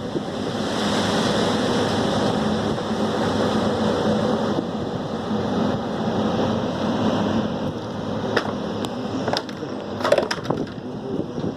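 Wind buffeting the microphone in a steady rush, with a faint hum underneath and a few sharp knocks or cracks about eight to ten seconds in.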